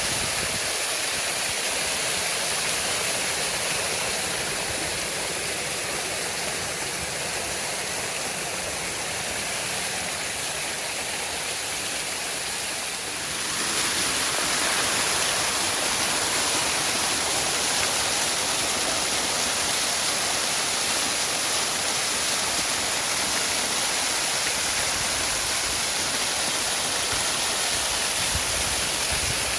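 Waterfall: a steady rush of falling water, growing a little louder and fuller about halfway through.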